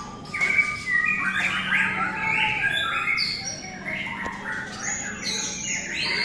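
Several caged white-rumped shamas (murai batu) singing at once, a dense, overlapping tangle of whistles, rising and falling phrases and chirps, over a steady low hum.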